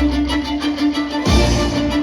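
Orchestral music led by violins over a held, pulsing note, with a heavy low accent a little over a second in.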